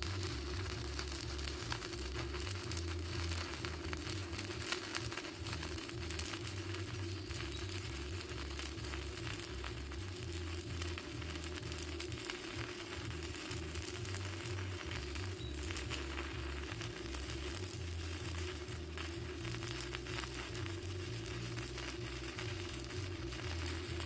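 Stick (arc) welding with a Yeswelder YWM-160 welder: the electrode arc crackles steadily and continuously as it lays a bead, over a steady low hum.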